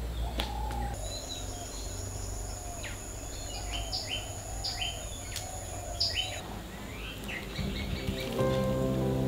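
Outdoor birdsong: birds chirping, with a quick series of short falling chirps in the middle, over a steady high whine that stops partway through. Soft music comes in near the end.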